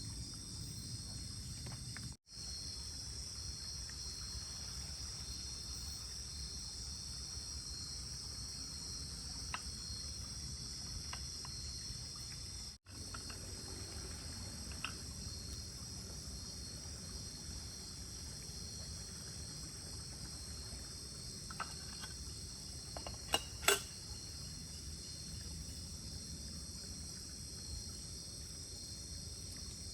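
Steady night chorus of crickets and other insects, a continuous high trill, with a few faint clicks and a short pair of louder knocks about three-quarters of the way through.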